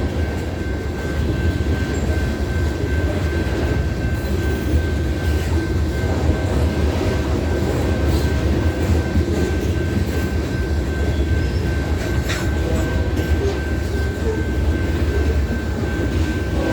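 BNSF hopper cars rolling past: a steady, heavy rumble of steel wheels on rail, with a thin high whine held throughout and occasional faint clicks.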